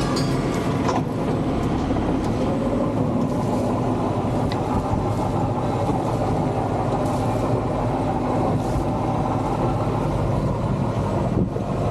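Sailboat's inboard engine running steadily under way in forward gear, a continuous low hum.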